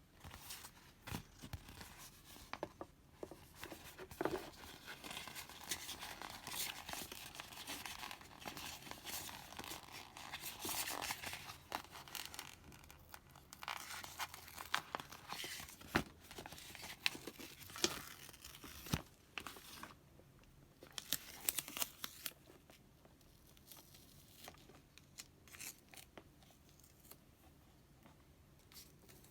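Light tearing and crinkling of thin material, busiest in the first half, with scattered sharp clicks and taps throughout, quieter near the end.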